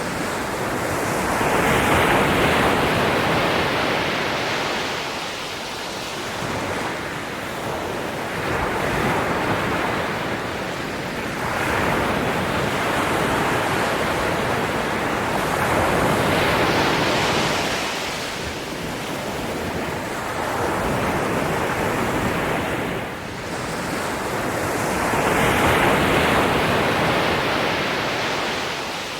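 Ocean waves breaking and washing on the shore, each one swelling and falling away, one every few seconds.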